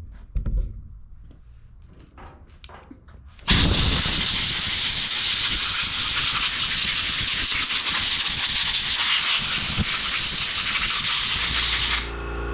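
Compressed-air blow gun hissing loudly and steadily for about eight seconds, blowing dust off a mower part; it starts sharply a few seconds in and cuts off near the end. A few light handling knocks come before it.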